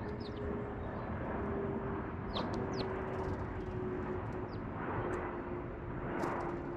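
Small birds giving short high chirps that slide down in pitch, a few at a time, over steady outdoor background noise. A faint steady hum sinks slowly in pitch underneath.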